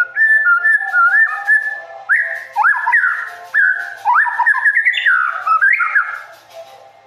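Songbird singing a varied run of clear whistled notes with quick upward and downward slides, fading away near the end.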